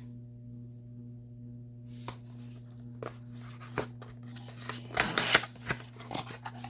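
Packaging being opened by hand: rustling, crinkling and tearing with scattered clicks that start about two seconds in and come thickest and loudest around five seconds in. A steady low hum runs underneath.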